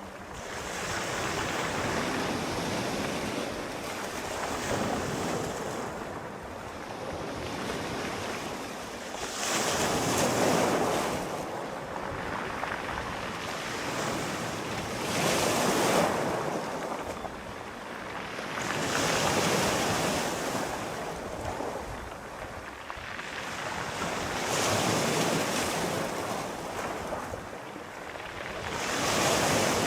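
Sea waves breaking and washing on the shore, the surf swelling and ebbing every four to five seconds.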